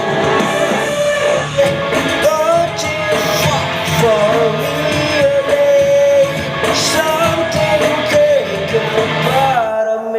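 Karaoke singing of a rock song: a voice sings loudly over a full band backing track with a steady beat.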